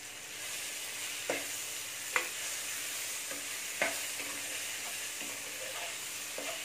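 Sliced onions, tomatoes and green chillies sautéing in a non-stick kadai with a steady sizzle while a steel spoon stirs them. The spoon strikes the pan with a few sharp clinks, three of them loud.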